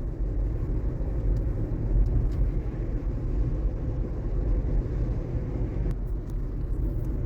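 Steady low road and tyre rumble inside the cabin of a Waymo electric robotaxi as it drives, with a faint steady tone in the low mids.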